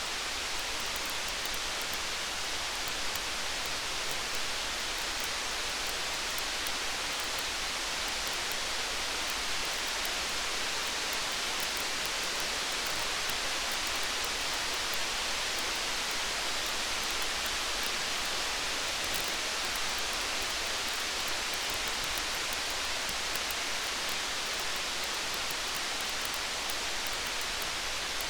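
Steady hiss of rain mixed with a campfire, with faint, fine crackles scattered through it.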